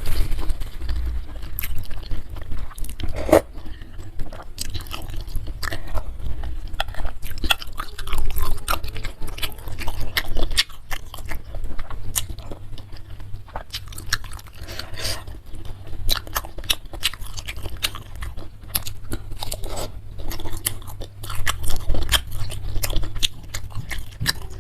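Close-miked chewing and biting of a bowl of bakso meatball soup with noodles and chicken feet: many small irregular clicks and crunches.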